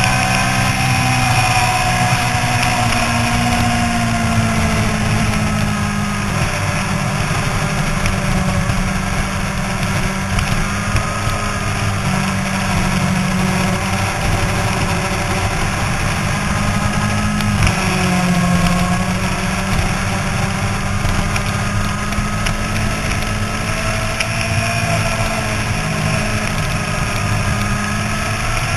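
Yamaha YZF-R6's 600 cc inline-four engine at high revs on track, its pitch rising and falling with the throttle through the corners, dipping sharply and climbing again about two-thirds of the way through, over a steady rush of wind noise.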